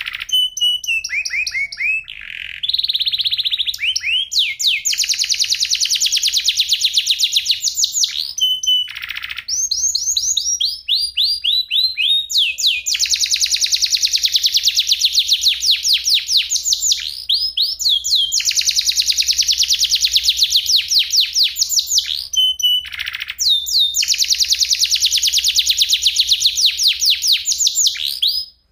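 Domestic canary singing: long rolling trills of fast repeated high notes, with runs of falling whistled sweeps and brief pauses between phrases. The song breaks off near the end.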